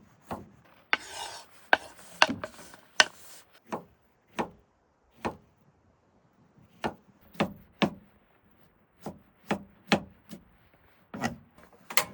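Knife chopping on a wooden cutting board: a string of sharp, uneven knocks with a short pause midway, and a brief rubbing scrape about a second in.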